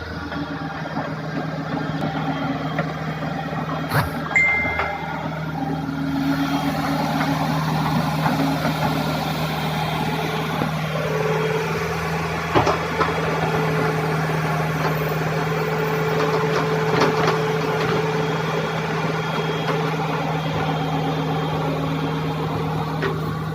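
Hitachi excavator's diesel engine running steadily. A higher steady tone joins about halfway through, and there are two sharp knocks, one about four seconds in and one about halfway.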